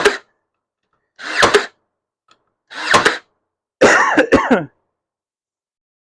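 Ryobi AirStrike 18V cordless brad nailer firing brad nails into cedar fence pickets, about four shots roughly a second and a half apart. Each shot is a brief rising whir ending in a sharp snap, and the last one is a quick double.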